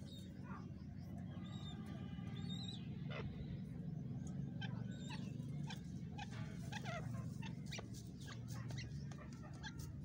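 Many short bird chirps and twitters, scattered and thickest in the second half, over a steady low rumble.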